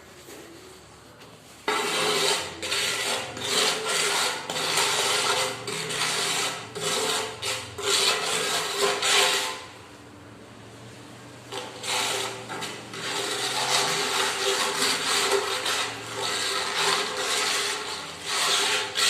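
Rough, uneven scraping or rasping, as of something hard rubbed over a rough surface. It starts suddenly about two seconds in, stops for about two seconds near the middle, then starts again.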